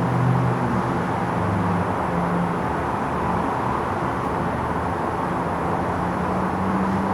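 Steady outdoor background noise with a low, wavering engine-like hum.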